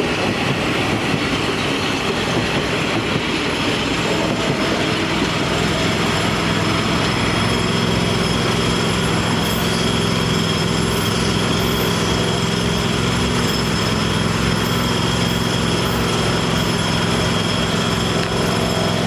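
Metro-North M7A electric multiple-unit train running, with a steady rumble and a constant electrical hum and high whine from its equipment.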